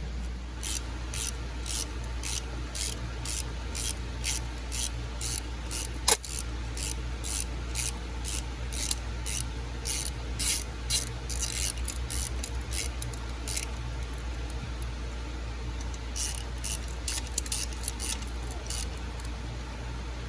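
Rapid back-and-forth hand scrubbing strokes, about three a second, pausing for a couple of seconds after the middle. There is one sharp click about six seconds in.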